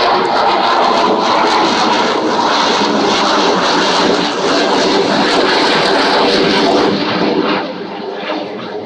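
Avro Vulcan bomber's four Olympus turbojets on a low fly-by: a loud, steady jet roar that falls away about seven seconds in as the aircraft moves off.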